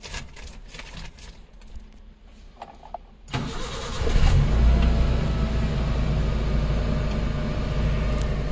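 A few light clicks, then about three seconds in the 2010 Maruti Gypsy's 1.3-litre four-cylinder petrol engine cranks briefly on the starter, catches and settles into a steady idle.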